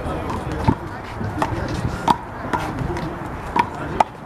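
Handball rally: a rubber handball struck by hand and rebounding off the wall and pavement, about six sharp smacks at irregular half-second to one-second intervals.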